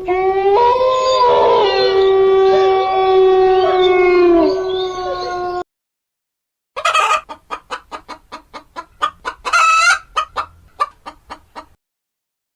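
Chicken calls: one long, steady rooster crow lasting about five and a half seconds, then after a short gap a quick run of clucks, about four a second, for some five seconds.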